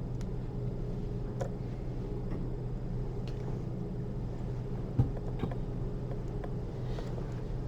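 Steady low electrical hum with a few faint clicks and one sharper tick about five seconds in, from metal surgical instruments (needle holder and forceps) being handled while suturing.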